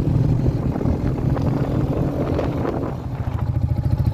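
Royal Enfield Meteor 350's single-cylinder engine running as the motorcycle is ridden, with a few rattles and wind on the microphone. About three seconds in, the engine slows and its individual firing pulses become distinct.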